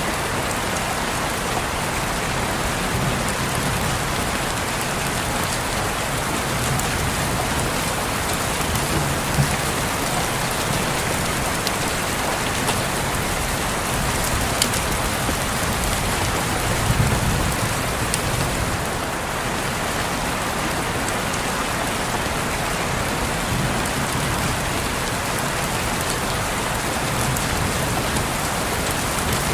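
Steady rain falling on a window pane, an even hiss with a few sharper drop taps now and then.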